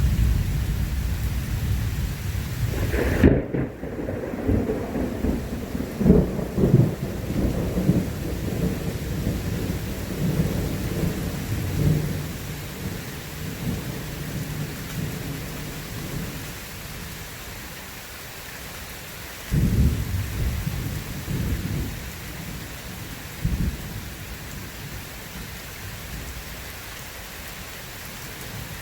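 Thunderstorm: steady heavy rain with rolling thunder. A sharp thunderclap comes about three seconds in and rumbles on for several seconds, and shorter rolls of thunder follow near the two-thirds mark.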